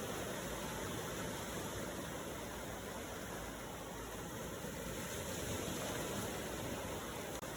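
Ocean waves washing in a steady, continuous rush of surf, with one momentary dropout just before the end.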